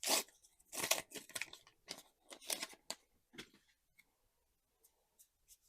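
Trading cards being handled and slid past one another, a run of short papery rustles and scrapes that thin out to a few faint ticks after about three and a half seconds.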